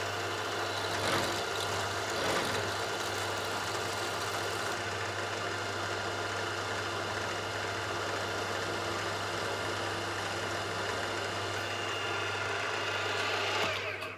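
Electric workshop machine running steadily with a strong mains-motor hum, then switched off and dying away near the end.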